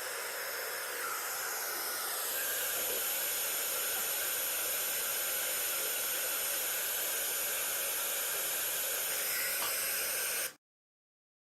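Steady white-noise hiss, strongest in the high range, cutting off suddenly into silence near the end.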